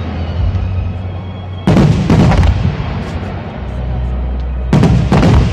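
Fireworks bursting in two quick volleys about three seconds apart, each a tight cluster of sharp bangs lasting under a second, over music with a steady deep bass.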